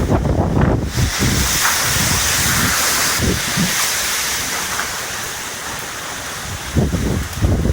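Typhoon winds with driving rain: a steady loud hiss, with gusts buffeting the microphone in heavy low rumbles during the first second and again near the end.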